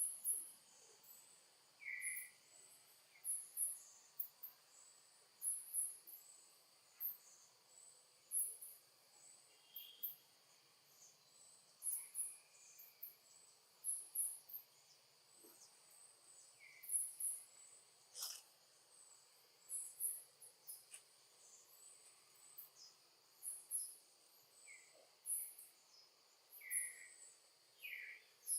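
Insects chirping in short, very high bursts that repeat irregularly over a steady high-pitched drone, with a few lower chirps here and there.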